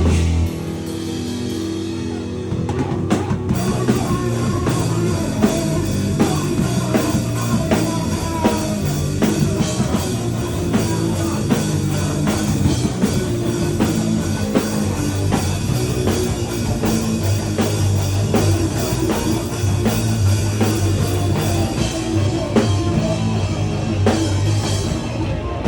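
Live powerviolence band playing loud: distorted guitar and bass over fast drums. After a slightly quieter opening, the full band comes in about two and a half seconds in.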